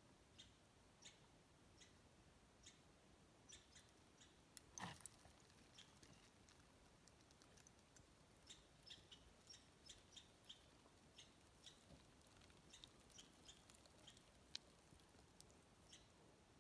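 Near silence with faint, short, scattered high chirps of small birds, and one louder brief rustle about five seconds in.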